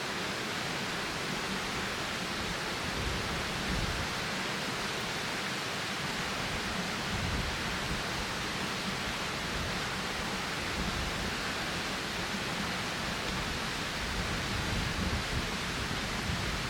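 Strong wind blowing steadily, with gusts rumbling against the microphone.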